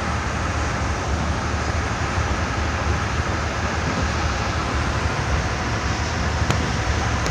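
Steady rumble and rush of a passenger train in motion, heard from on board: wheels running on the rails and the coach body rattling, with one brief tick near the end.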